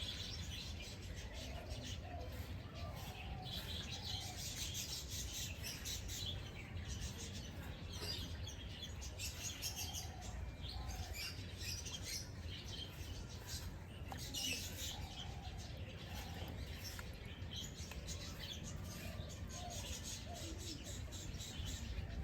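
Small birds chirping and twittering continuously, many short high calls overlapping, over a steady low background rumble.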